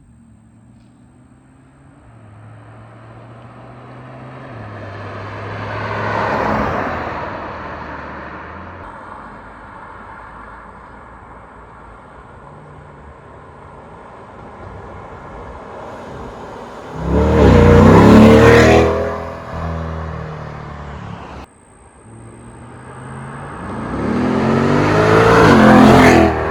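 2020 Corvette C8 Z51's 6.2-litre V8 exhaust accelerating past several times, each pass swelling and then falling in pitch as it goes by. The first, softer pass peaks about six seconds in, a loud one comes about eighteen seconds in, and a third builds loud near the end after an abrupt cut.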